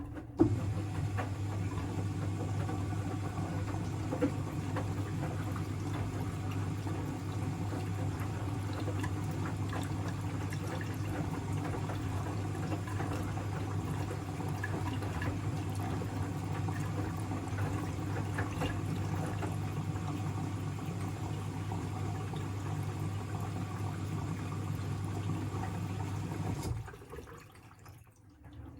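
Siemens WM14T490 washing machine humming steadily with water rushing through it, as when it fills or pumps out, cutting off about 27 seconds in.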